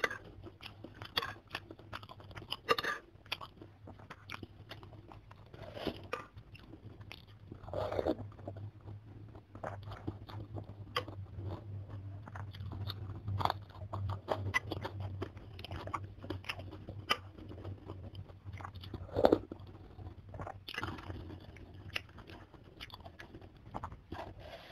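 Close-miked eating of chicken soto with vermicelli noodles: wet chewing with occasional crunches and noodle slurps, and a few louder sharp mouth sounds, over a faint low steady hum.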